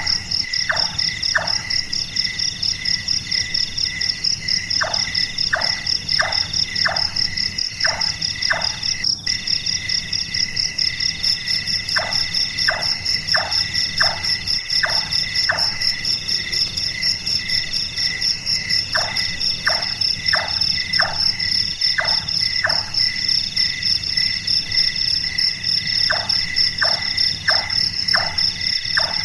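Large-tailed nightjar calling: runs of about six to eight hollow knocking notes at roughly two per second, the carpenter's hammering sound the bird is named for, a new run every several seconds. A steady chorus of crickets shrills behind it.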